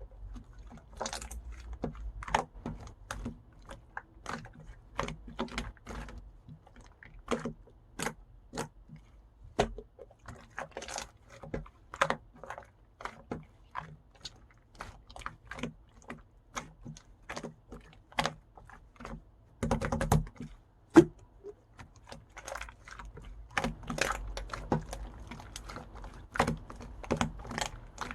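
Slime being pressed and worked by hand, giving irregular sharp clicking pops, two or three a second, with a short burst of denser crackling about two-thirds of the way through.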